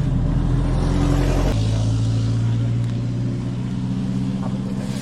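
A 4x4 truck's engine running steadily. Its note shifts about a second and a half in, then holds.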